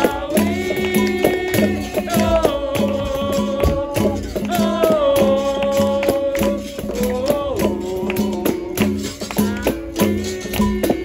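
Capoeira roda music: a singer holds long, bending sung lines over a steady rhythm of berimbau, pandeiro and drum, with the rattle of the berimbau's shaker.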